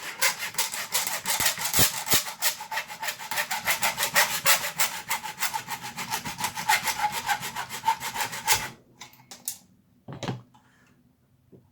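Hand tool cutting into a hard plastic blaster handle with fast, even back-and-forth scraping strokes, about seven a second. The strokes stop suddenly near the end, followed by a few light clicks.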